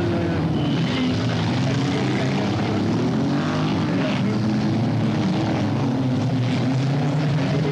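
Several stock-car engines running together on a dirt track, their pitches rising and falling as the drivers rev and lift.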